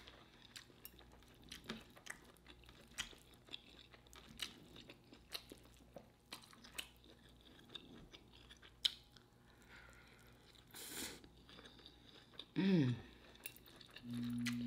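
A person chewing food close to the microphone, with many small wet mouth clicks. Near the end comes a short hum of the voice, then a steady low tone starts just before the end.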